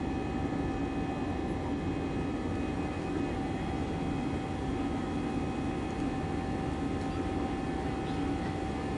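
Airbus A320's CFM56 jet engines running at a steady power, a constant wash of engine and air noise with several steady whining tones held throughout.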